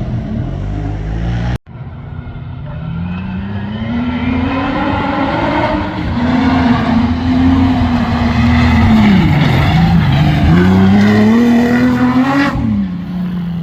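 Competition safari off-road vehicle's engine revving hard under load. Its pitch climbs and holds, drops briefly about two-thirds of the way through as the throttle lifts, climbs again, then falls away near the end. The sound cuts out abruptly for a moment early on.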